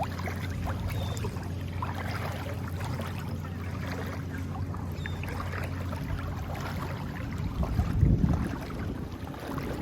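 A motor hums steadily in the distance, likely a boat engine off the shore. Wind buffets the microphone in a louder burst about eight seconds in.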